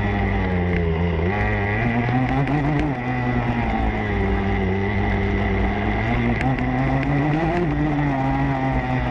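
Motocross bike engine revving as it is ridden, its pitch repeatedly rising and dropping with throttle and gear changes.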